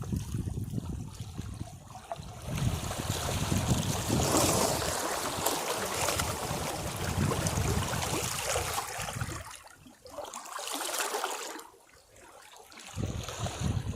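Sea waves washing against rocks, surging and draining away in swells, with two brief lulls near the end.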